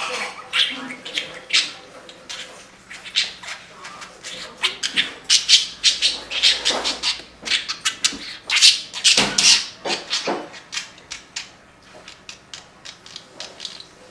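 Pet budgerigar chattering: a rapid, busy run of short high chirps and clicks in a speech-like warble, loudest in the middle.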